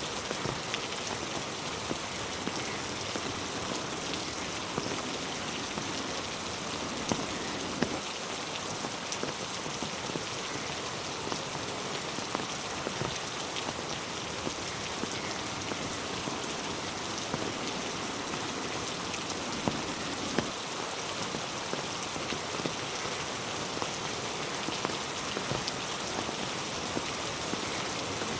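Steady rain falling on a road and trees: an even hiss with many separate drops tapping and splashing throughout.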